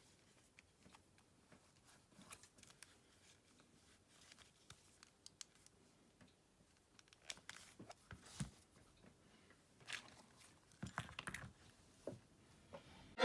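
Faint, scattered clicks and small taps of a smartphone's plastic and metal parts being handled during a repair. The clicks come more often in the second half, with a few a little louder.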